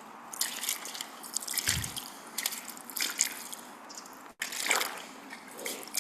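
Water dripping and trickling in small, irregular splashes.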